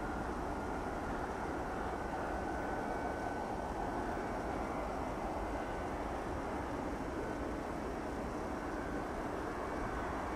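Boeing 707's Pratt & Whitney JT3D turbofan engines running steadily as the jet passes, a constant jet noise with a faint high whine that drifts slightly in pitch.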